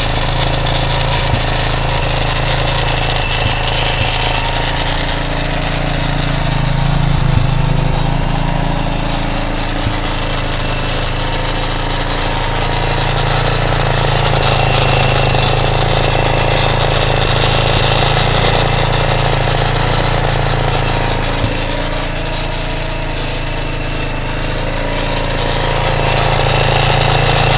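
Four-stroke 230 motorcycle engine idling steadily, its note swelling and easing slightly. It has a light rattle from the top end that the owner puts down mostly to tappet noise.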